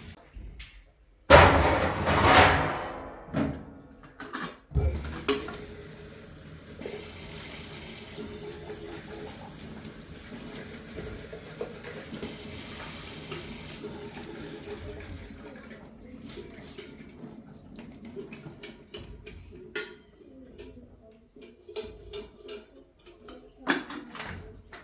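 Water running, with dishes and pots clinking and knocking. A loud splash-like burst comes about a second in, steady water through the middle, and a run of sharp clinks near the end.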